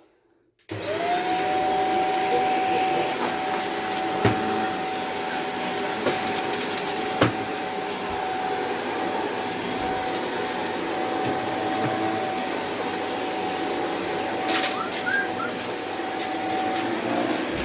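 Vacuum cleaner motor switching on and spinning up to a steady whine, then running evenly and switching off near the end, with a few small knocks along the way.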